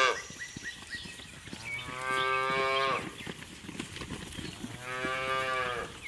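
Calf mooing twice, each call about a second long and steady in pitch, with a short pause between them.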